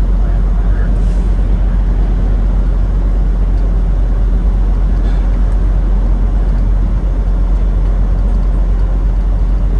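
Semi truck running, a steady low rumble with no changes.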